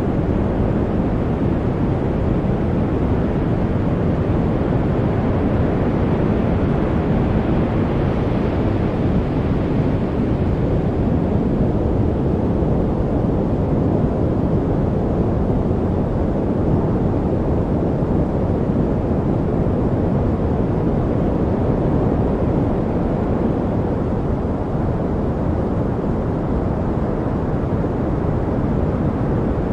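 Steady, deep noise, sold as white noise for studying but weighted toward low pitches, so it sounds like a muffled rumble rather than a bright hiss. It runs unbroken, brightening slightly about seven to ten seconds in.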